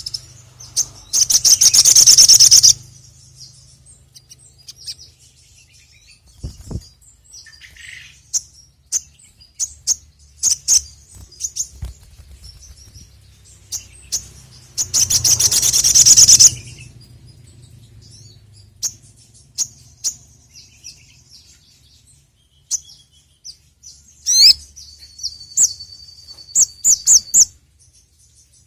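Sogok ontong (sogon) sunbird singing: two loud bursts of rapid, high trilling, one near the start and one about halfway, between scattered sharp chirps. Near the end comes a held high whistle broken by quick upswept notes, over a faint low hum.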